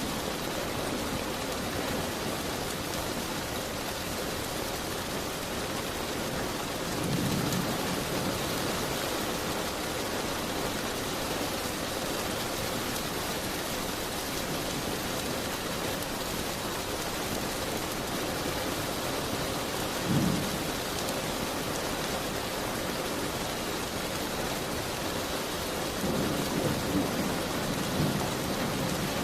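Steady rain pattering on a window, with a few brief low rumbles: about seven seconds in, again at twenty seconds, and a cluster near the end.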